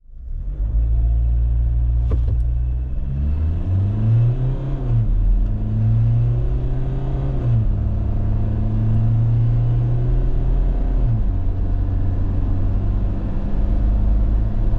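Mahindra Scorpio's 2.2-litre turbo-diesel four-cylinder engine accelerating hard. Its note climbs and then falls back sharply three times, as the automatic gearbox shifts up, over a heavy low rumble.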